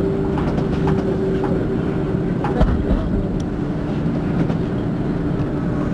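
Düsseldorf SkyTrain suspended monorail car running along its guideway, heard from inside the cabin: a steady rumble with a motor hum and scattered light clicks.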